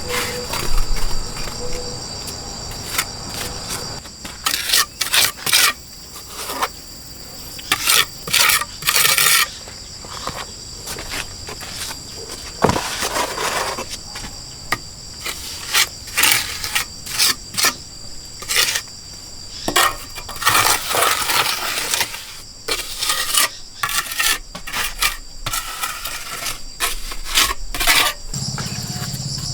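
Steady high-pitched insect chorus, cicadas or crickets, under irregular sharp clinks and knocks of objects being handled and set down.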